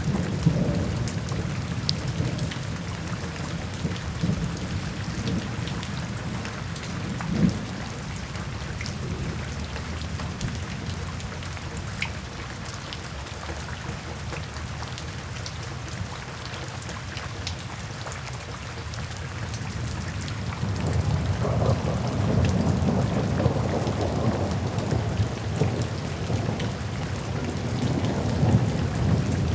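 Steady rain drumming on a tin roof, with scattered sharp drop ticks and thunder rumbling low beneath it. The rumble grows louder about two-thirds of the way through.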